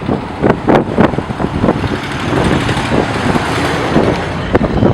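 A road vehicle passing; its noise swells and fades over a few seconds.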